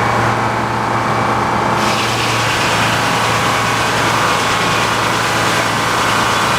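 Tractor engine running steadily, driving a sawmill; about two seconds in a loud hiss joins it as the saw blade begins cutting through the log.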